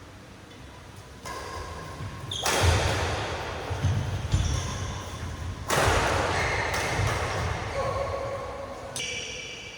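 Badminton court sounds in a large echoing hall: players' feet thudding on the court and sudden bursts of noise about 1, 2.5 and 6 seconds in, each fading slowly.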